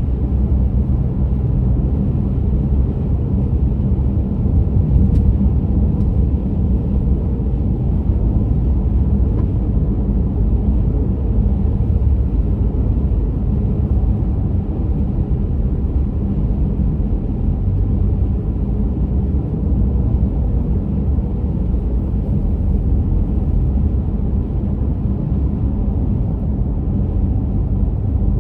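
Car driving along a road: a steady, low rumble of tyres and engine.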